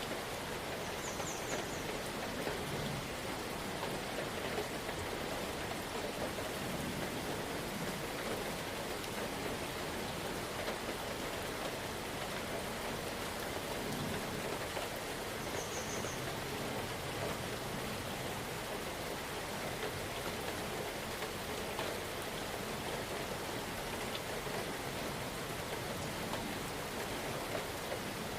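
Steady rain falling, an even hiss that never lets up. A short, faint, high chirp sounds about a second in and again about halfway through.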